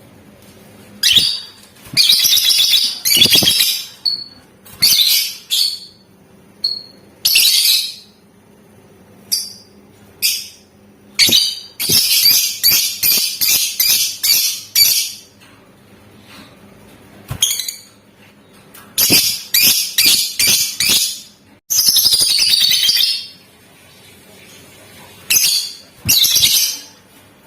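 Lovebird calling in bursts of rapid, shrill, high-pitched chattering. The bursts last from a moment to about three seconds, with short pauses between them, and the longest run comes around the middle.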